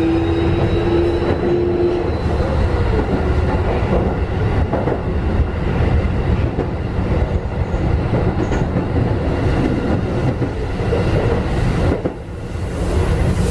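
Keikyu 1500-series electric train running, heard inside a motor car: the whine of its Mitsubishi IGBT-VVVF inverter and traction motors stops about two seconds in. After that the steady rumble of wheels on rail goes on.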